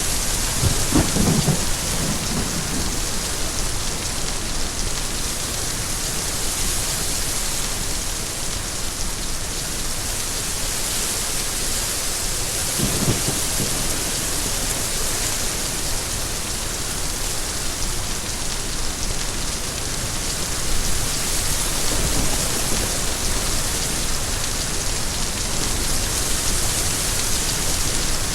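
Steady heavy rainfall, with brief low rumbles of thunder three times: about a second in, near the middle and later on.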